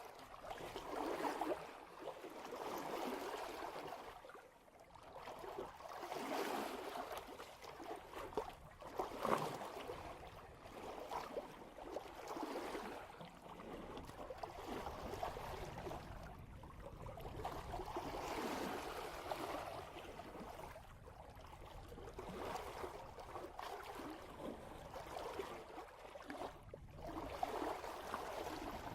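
Seawater rushing and splashing along the bow of a sailboat moving at about 3 knots. The wash swells and fades every few seconds as the hull meets each swell, with an occasional sharper splash.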